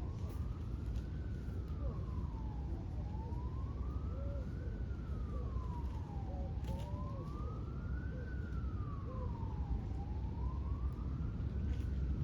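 Emergency vehicle siren in a slow wail, rising and falling about every three and a half seconds, over a steady low rumble.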